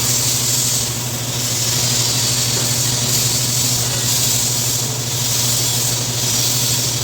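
TIG welding arc running steadily: a continuous hiss over a low electrical buzz, the hiss swelling and easing every second or two.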